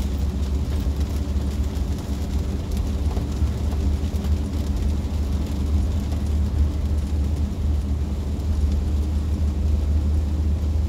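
Car engine running steadily, heard from inside the car: a constant low hum with a steady drone above it.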